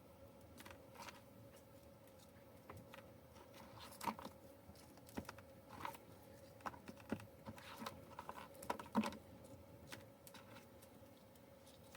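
Faint, irregular light clicks and taps of burgers being assembled on a griddle, with bacon and buns handled by a utensil, over a faint steady hum.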